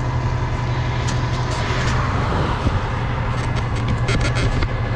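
A truck engine idling steadily, with a few light metallic clicks and rattles in the second half.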